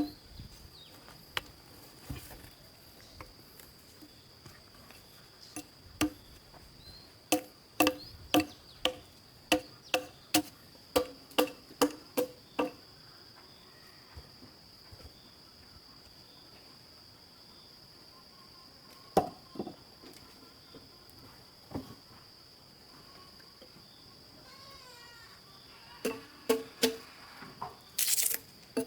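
Sharp hand-tool strikes on material, each with a short ringing knock, coming in runs of about two a second with pauses between. A steady high insect drone runs underneath.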